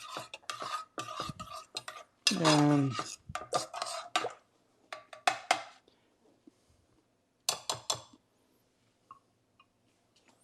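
A spoon scraping and clinking in a saucepan of barbecue sauce being stirred, in a run of short strokes, with a brief clatter about eight seconds in. A short burst of a man's voice comes about two seconds in.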